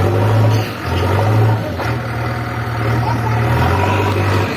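JCB 3DX backhoe loader's diesel engine running under working load, its low hum dipping briefly and picking up again about a second in and near two seconds in.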